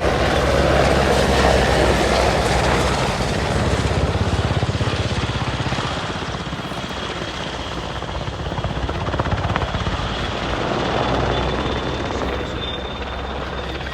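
Helicopter in flight: a loud steady rotor chop over turbine roar, swelling and fading as it moves.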